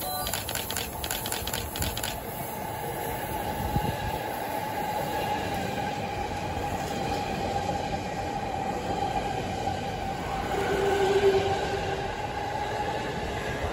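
JR East E257 series express train passing through a station platform at speed: rapid clicking of wheels at the start, then a steady rumble with a ringing tone, and a brief louder tone about eleven seconds in.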